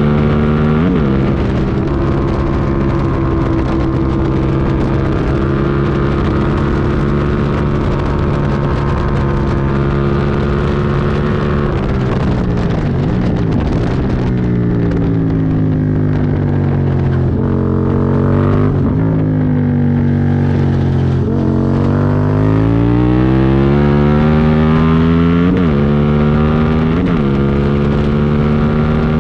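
Aprilia Tuono V2 1000 V-twin engine at speed on track, held at high revs with quick gear-change dips near the start and end. About halfway through, the revs fall as the bike slows, with several short throttle blips on the downshifts, then the pitch rises steadily as it accelerates again.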